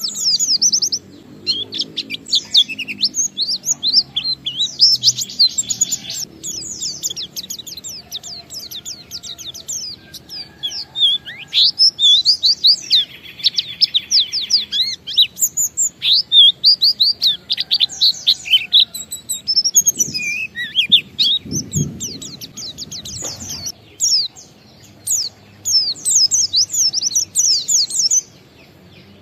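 White-eye (pleci) singing a long unbroken 'ngalas' song: rapid, dense high twittering chirps and trills with only brief pauses.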